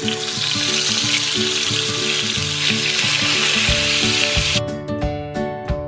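Soaked tempe blocks sizzling in hot oil in a cast-iron skillet, with a dense, even hiss that cuts off suddenly about four and a half seconds in. Plucked acoustic guitar background music plays under it throughout.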